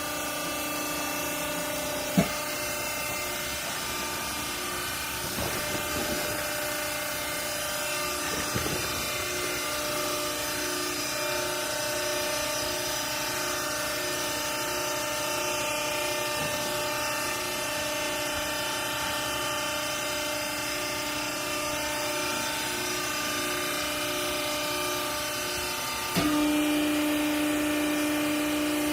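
Hydraulic baler's motor and pump running with a steady hum. A sharp knock comes about two seconds in, and near the end the hum suddenly gets louder with a stronger low tone.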